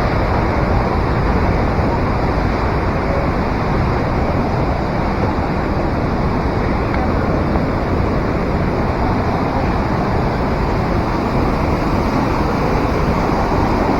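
Rushing water, loud and steady, with no breaks.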